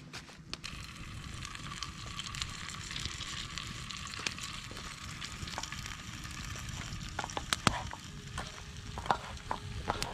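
Food sizzling in a pan over a campfire, with scattered sharp clicks and taps, the loudest about seven and a half seconds in.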